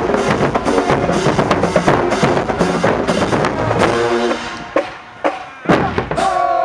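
Marching band playing brass and drums at full volume. Near the four-second mark it drops to a short falling run of notes, followed by a few separate drum hits and one long held note near the end.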